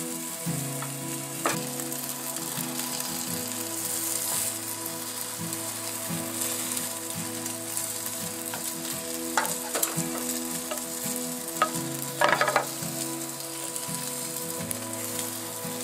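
Bánh xèo (Vietnamese crispy pancake) batter sizzling steadily as it fries in an oiled skillet. A few sharp clicks and scrapes cut through, the loudest cluster about twelve seconds in.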